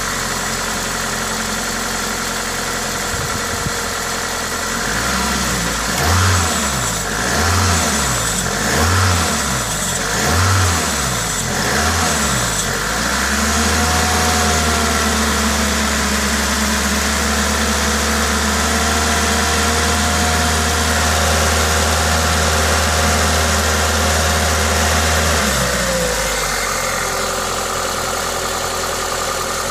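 Toyota 2ZZ-GE 1.8-litre four-cylinder engine with an aftermarket induction kit, idling, then blipped four times about a second and a half apart, then held at raised revs for about twelve seconds before dropping back to idle near the end. The induction kit adds a hiss over the engine, and the owner presents the sound as normal for this engine.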